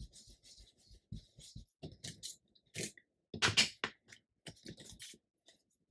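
Paper pieces being handled and set down: scattered light rustles and soft taps, with a louder rustle a little past halfway.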